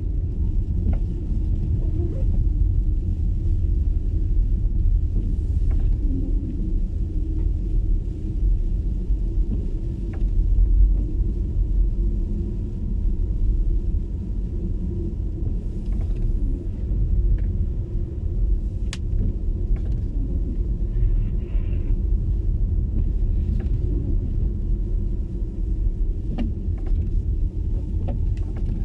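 Steady low rumble of tyre and road noise from an MG ZS EV electric car driving on a snowy road, with no engine sound. Faint scattered clicks and a faint thin whine sit over the rumble.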